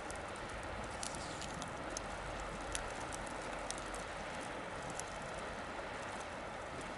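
Wood bonfire crackling: irregular sharp pops and snaps, a few louder ones about a second, three and five seconds in, over a steady hiss.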